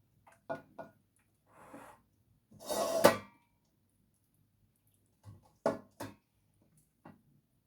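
Kitchen handling sounds as raw meat pieces are put into a pot of spice mixture: a few light knocks and clicks, a louder rustling burst ending in a sharp knock about three seconds in, and a couple more knocks near the end.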